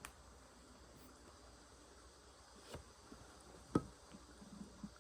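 Faint chirping of grass insects, with a sharp click about three-quarters of the way through.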